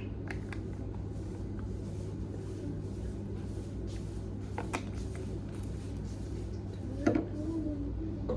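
Small clicks and a knock from skincare bottles and jars being handled, over a steady low hum in a small room.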